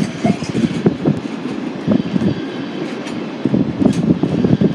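A train moving along the track: a steady rumble with irregular clattering knocks from the wheels and cars.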